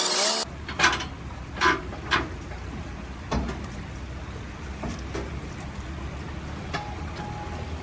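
A vehicle engine running low and steady, with several separate sharp knocks or clanks over it. A different steady sound cuts off abruptly just under half a second in.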